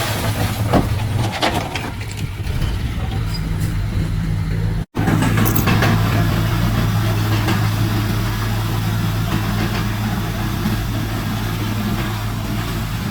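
A heavy diesel earthmoving machine's engine running steadily, with a few sharp knocks and clanks in the first two seconds. The sound drops out for an instant about five seconds in, then the engine runs on.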